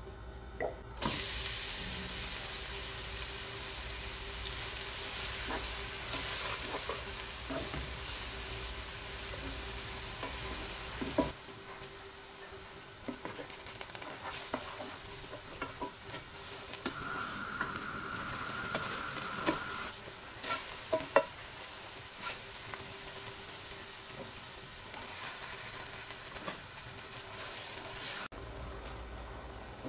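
Chopped onion frying and sizzling in hot olive oil in a non-stick frying pan; the sizzle starts suddenly about a second in. A plastic spatula scrapes and taps against the pan as it stirs, later through tomato paste and grated tomato, over a steady low hum.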